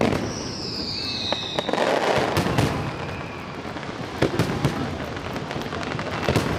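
Aerial fireworks shells bursting in a run of sharp bangs and crackles. Near the start a high whistle glides down in pitch for about a second and a half.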